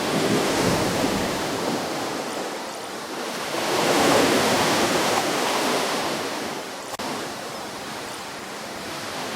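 Ocean waves washing onto a shore: a steady surf that swells, loudest about four seconds in, eases off, and builds again as the next wave comes in near the end.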